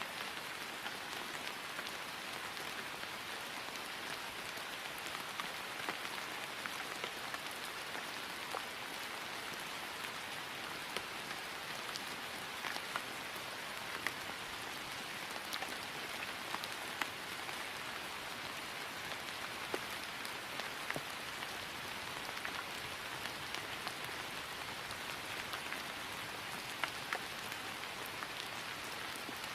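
Steady rain falling on grass: an even hiss with scattered individual drops ticking through it.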